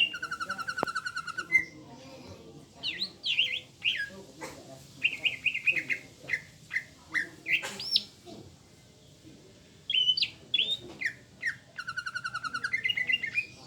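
Cucak ijo (green leafbird) singing in answer to another bird: fast, evenly repeated trills at the start and again near the end, with varied whistled chirps and slurred rising and falling notes between them and a short lull a little past halfway.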